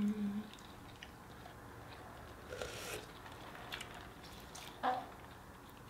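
Faint eating sounds of chicken wings being chewed, with small wet mouth clicks and finger licking. A brief louder noisy sound comes about two and a half seconds in, and a short pitched blip a little before the end.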